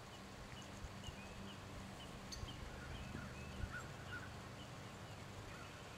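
Faint birds chirping in the background, short calls repeating every half second or so, over a low steady hum.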